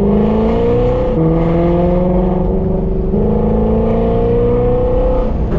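Shelby GT350's 5.2-litre flat-plane-crank V8, breathing through Kooks long-tube headers and a catted competition exhaust, pulling hard under acceleration. The exhaust note climbs in pitch, drops back about a second in, then climbs steadily again.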